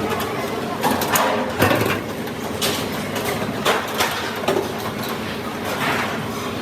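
Steady workshop noise with irregular sharp knocks or clanks, roughly one every second.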